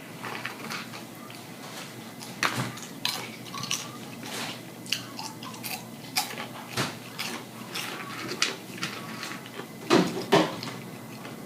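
A person eating close to the microphone: irregular chewing, smacking and biting with sharp clicks and knocks, the loudest pair of them near the end.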